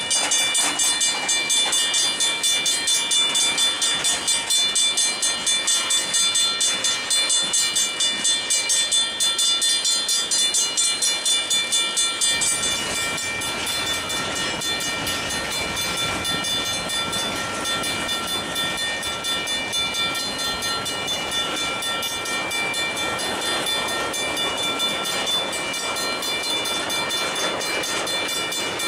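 Railroad crossing signal bell ringing in rapid, even strokes over a freight train of tank cars rolling through the crossing. About twelve seconds in the bell drops out, leaving the steady rumble and rattle of the freight cars' wheels on the rails.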